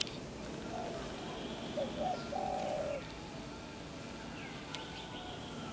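Bird cooing in the background: a few short notes and then a longer drawn-out one, about one to three seconds in.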